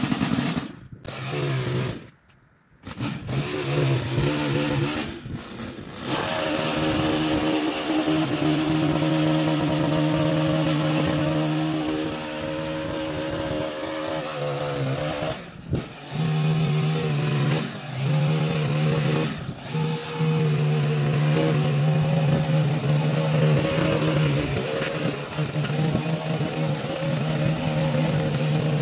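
Gas-powered lawn edger's small engine running steadily at a held pitch, with several brief breaks.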